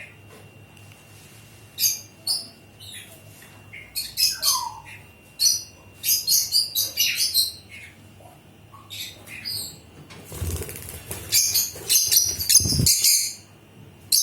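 Pet parrots, a lutino lovebird and a pineapple conure, chirping in quick clusters of short high-pitched calls. About ten seconds in, a noisy rustling flurry joins the chirps for a couple of seconds.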